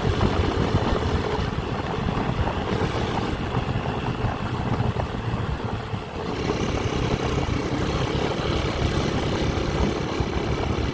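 Motorcycle engine running while riding, with rushing wind noise on the microphone; the sound dips briefly about six seconds in.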